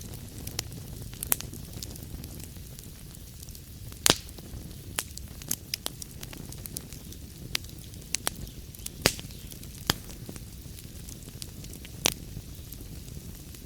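Wood fire in a fireplace crackling: irregular sharp pops and snaps over a low, steady rumble of flame, with a few louder pops standing out.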